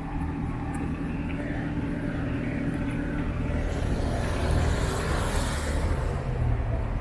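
Motor vehicle driving past with a low engine hum, its noise building to a peak about five seconds in and then easing off.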